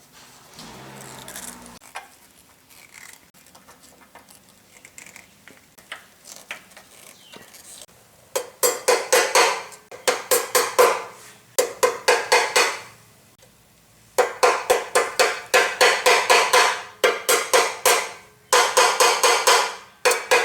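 Quick back-and-forth scrubbing strokes on metal by hand, about four a second, in runs of a few seconds starting about eight seconds in.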